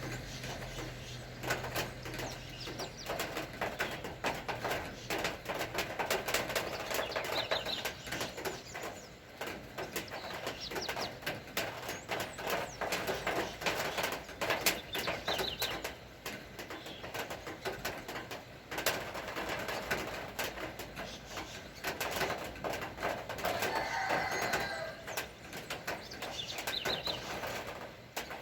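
Rain falling, dense irregular drops pattering and dripping, with birds calling now and then above it.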